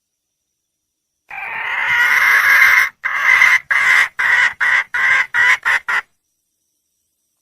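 Wild red junglefowl hen calling for a mate: one long call that grows louder, then a quick run of about eight shorter notes that stops about six seconds in.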